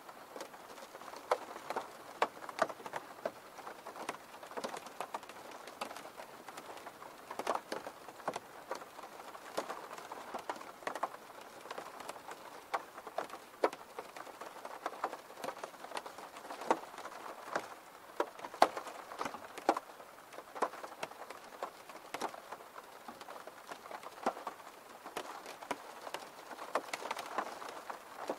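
Rain falling on a window: a steady hiss with many single drops tapping on the glass at irregular intervals.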